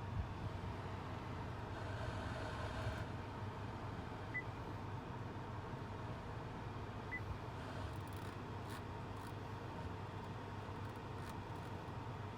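Steady low hum inside a 2019 Honda Accord Sport's cabin, with three short, faint, high beeps near the start, about four seconds in and about seven seconds in.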